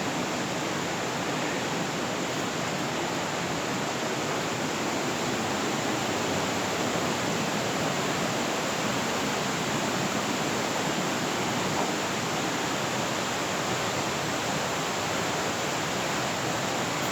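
Steady rush of fast-flowing river water, an even roar with no breaks.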